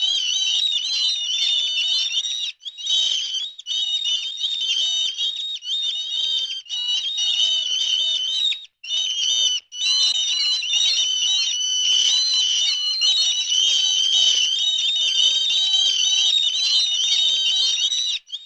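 A songbird singing a rapid, continuous high-pitched warbling song, cut off abruptly several times.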